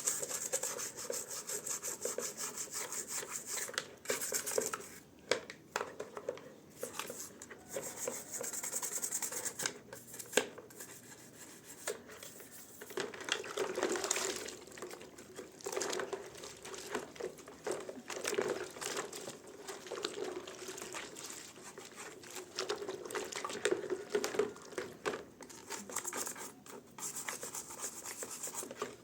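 Hand scrubbing and rubbing during cleaning, with some water sounds: quick scratchy strokes at first and again partway through, a few clicks, and softer wet wiping later.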